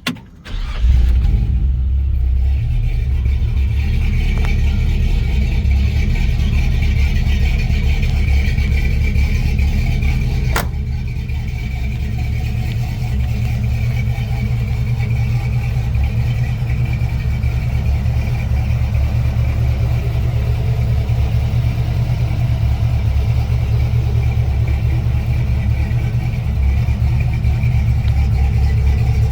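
1969 Chevrolet C10 pickup's engine starting less than a second in, then running steadily, easing slightly about twelve seconds in and picking up again near the end. A single sharp click about ten seconds in.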